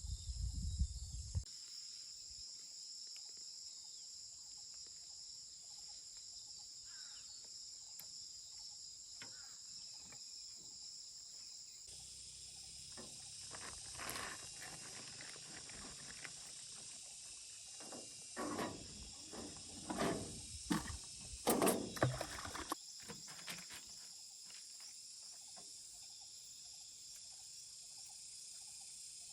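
Steady high-pitched chorus of insects, crickets or similar, shrilling without a break. About halfway through comes a run of irregular, louder, noisy knocks and swishes lasting several seconds, then it settles back to just the insects.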